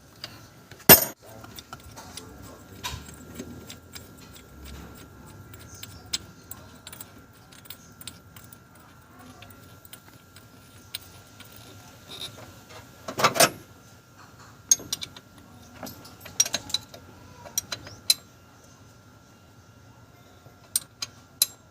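Irregular metallic clinks and knocks of hand tools and parts being handled, with two louder knocks, one about a second in and one about thirteen seconds in.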